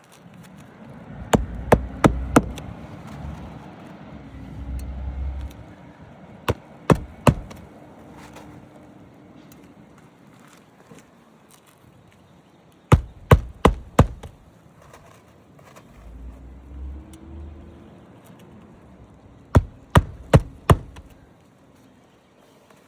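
Sharp knocks or strikes in four quick groups of three or four blows, the groups several seconds apart, with a low rumble in between.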